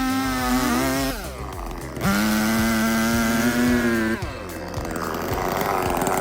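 Gas chainsaw running at high revs, its pitch sagging slightly, then dropping off about a second in. It revs up again about two seconds in, holds steady for two seconds and falls away, with background music underneath.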